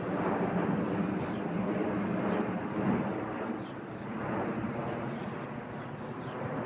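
Large airplane flying overhead: a steady engine drone.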